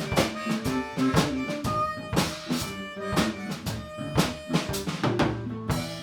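Live blues band playing an instrumental passage with no singing, a drum kit keeping a steady beat under the other instruments.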